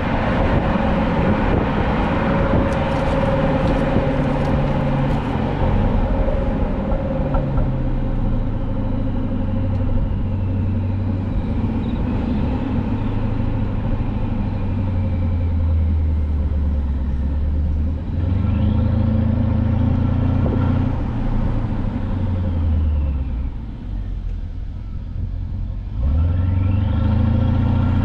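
Mercedes-Benz W222 S550's twin-turbo V8 exhaust with the resonators deleted, heard while driving. The engine note settles lower as the car eases off, then it accelerates twice, pitch rising each time, the second time sharply after a brief lull near the end.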